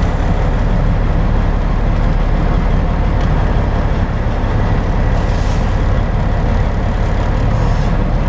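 Semi truck's diesel engine running steadily at low speed while the tractor-trailer is eased backward into position.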